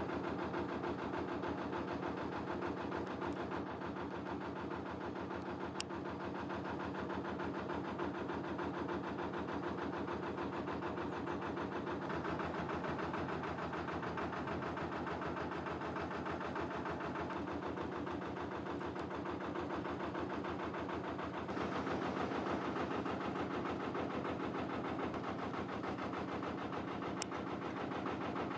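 A narrowboat's engine running steadily under way, with an even, fast pulse of firing strokes; it gets a little louder about three-quarters of the way through.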